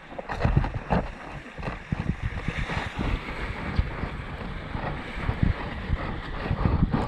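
Wind buffeting the microphone, with irregular low gusts and a few thumps over a steady outdoor hiss.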